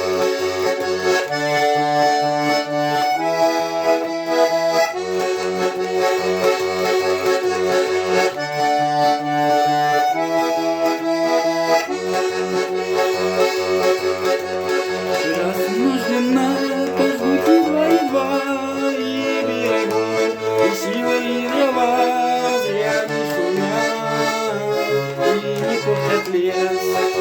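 Garmon (Russian button accordion) playing an instrumental passage: a melody over a steady, pulsing bass-and-chord accompaniment.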